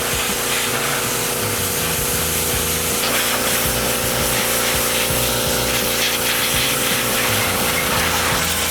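Gas-engine pressure washer running steadily at part throttle while its water jet sprays.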